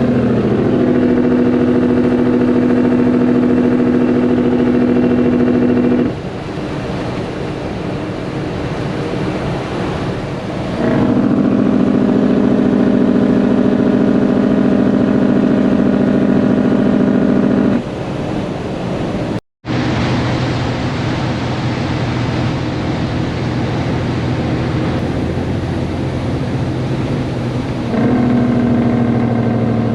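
Caterpillar C10 diesel in a Peterbilt 362 cabover, straight-piped with the muffler removed, running steadily at speed. It pulls loud for the first several seconds, again for about seven seconds mid-way and briefly near the end, easing off to a quieter drone in between.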